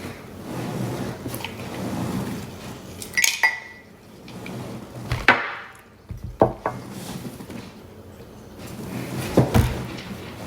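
Tableware being handled while eating: several scattered sharp clinks and knocks of utensils against dishes and cups on a table.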